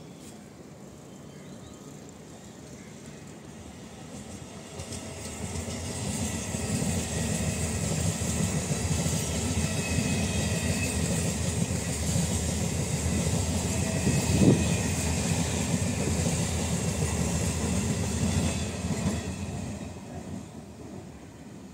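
Suburban electric multiple unit train passing close by: the rumble and clatter of its wheels on the rails builds over the first several seconds, holds, then fades near the end. One louder knock stands out about two-thirds of the way through.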